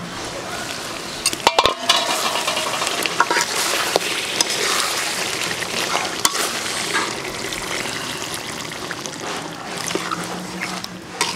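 Beef curry sizzling and frying in an aluminium karahi while a metal spatula stirs it and scrapes the pot. A few sharp metal clanks come about a second and a half in.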